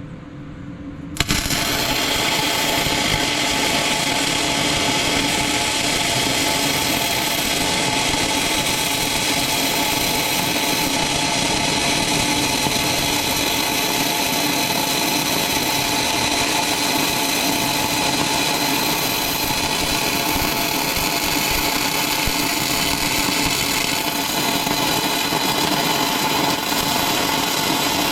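Angle grinder running continuously on scrap steel, starting abruptly about a second in.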